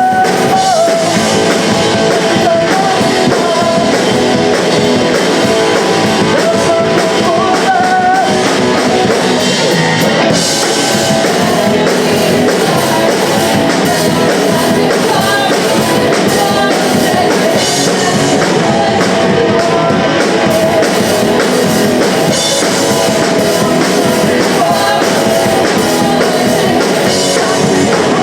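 Live punk rock band playing loudly: distorted electric guitars, bass and drum kit, with sung vocals.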